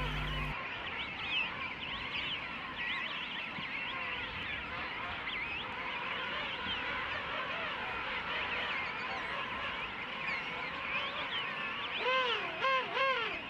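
King penguin colony calling: a dense chorus of many overlapping calls. Near the end a nearer penguin gives a run of quick rising-and-falling notes.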